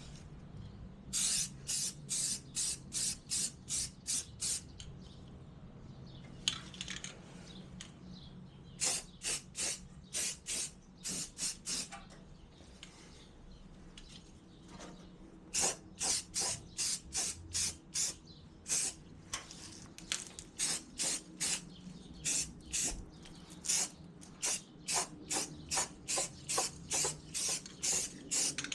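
Paint being sprayed in short repeated hissing bursts, about two a second, in several runs with pauses between them, over a faint steady low hum.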